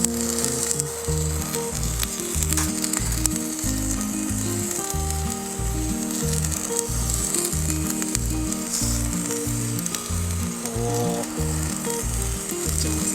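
Curry rice frying and sizzling in a skillet over an open log fire, a steady hiss. Background music with a bass line plays over it.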